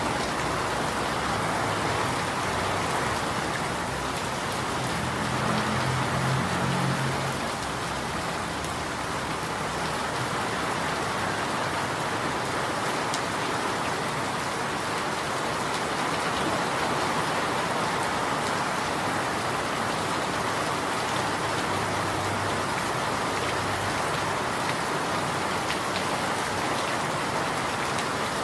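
Steady rain falling and pattering on surfaces in an even hiss. About five seconds in, a faint low hum rises under it for a couple of seconds.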